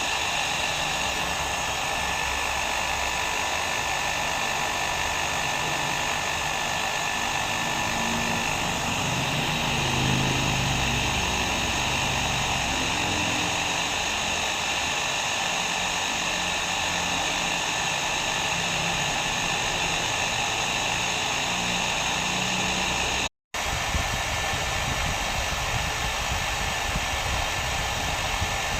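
Hair dryer running steadily, an even rush of air with a faint steady whine in it. It cuts out for a split second about three quarters of the way through, then carries on unchanged.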